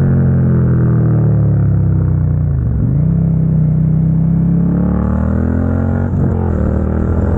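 Suzuki SV650's 645 cc V-twin running through an aftermarket Dominator GP exhaust while riding at a steady engine speed. The engine note dips briefly about three seconds in, then picks back up.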